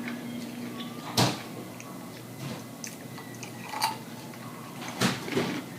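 Close-up mouth sounds of eating: chewing, with a few sharp clicks, the loudest about a second in.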